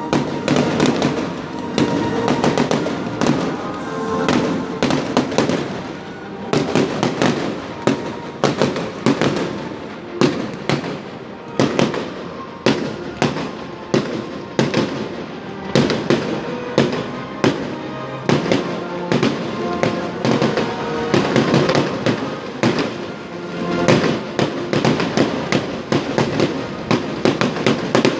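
Fireworks display: a dense, continuous series of sharp bangs and crackling bursts, several a second, with music playing underneath.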